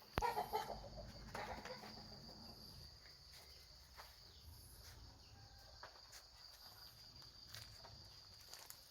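A puppy gives a short whimper about half a second in, over a steady high-pitched chirring of insects.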